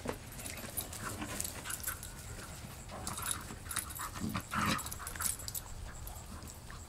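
A puppy panting and moving about, with scattered light clicks.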